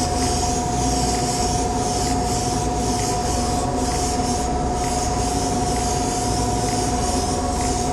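An airbrush compressor runs with a steady whine while a Mr. Hobby Procon Boy LWA trigger-type airbrush hisses as it sprays paint. The hiss swells and fades about once a second as the trigger is worked.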